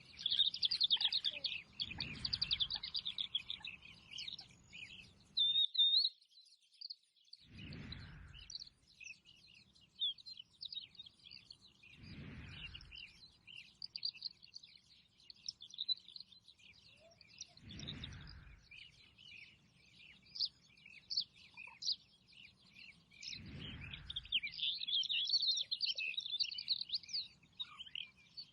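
Several small birds chirping and twittering continuously in high, quick notes, busiest at the start and again near the end. A soft rushing noise swells and fades about every five seconds underneath.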